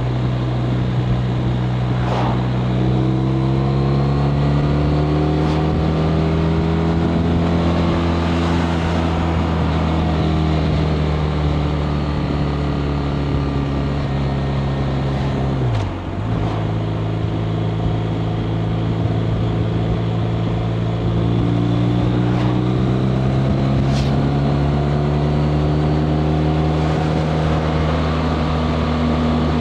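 BMW R 1250 RT's boxer twin engine running under way, its note slowly climbing as it pulls. About halfway through there is a brief sharp dip and recovery, a gear change. Wind rush runs underneath.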